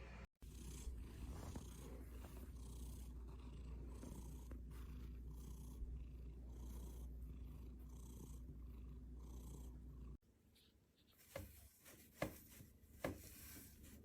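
A cat purring close to the microphone, a steady rumble that stops abruptly about ten seconds in. After that it is quieter, with three sharp clicks.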